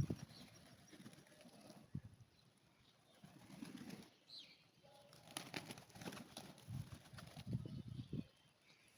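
A flock of pigeons feeding: low cooing in several short spells, with brief wing flaps and pecking clicks. A single sharp knock at the very start is the loudest sound.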